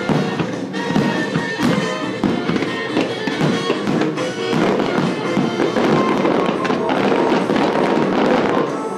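Fireworks display: bangs and crackling over music, becoming a dense stretch of crackle from about halfway through to near the end.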